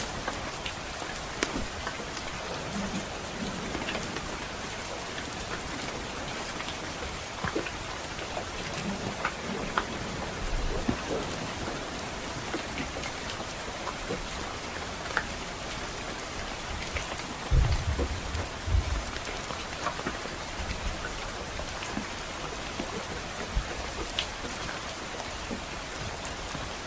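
Steady rain with a wood fire crackling, short pops scattered throughout. About two-thirds of the way in comes a brief low rumble of distant thunder.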